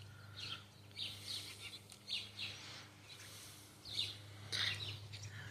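Small birds chirping in short, scattered high chirps, over a faint steady low hum.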